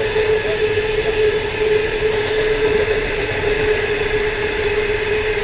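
Train running on rails: a steady rolling noise with one constant tone held throughout.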